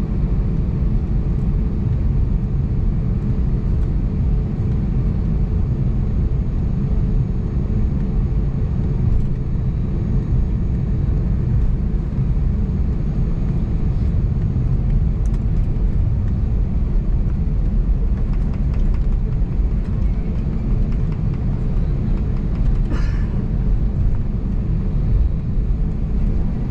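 Steady low rumble inside the cabin of an Airbus A320neo with its CFM LEAP-1A engines running. A brief faint rattle or click comes about three-quarters of the way through.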